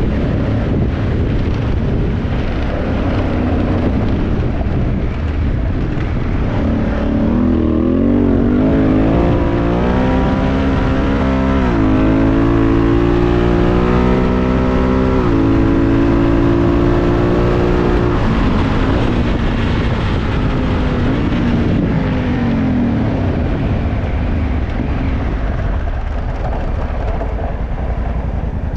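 2018 Honda Africa Twin's parallel-twin engine through an Akrapovic exhaust, ridden at speed under a constant rushing noise. Partway through, the engine note climbs, drops back twice as it shifts up through the gears, then settles into steady running.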